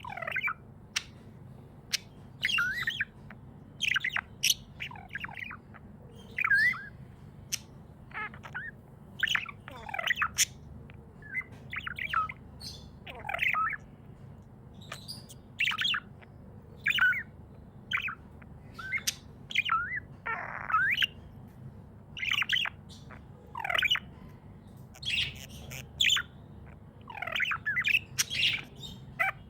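Pet budgerigars chirping: a steady stream of short, quick chirps and squawky calls, coming irregularly a second or so apart, over a faint steady low hum.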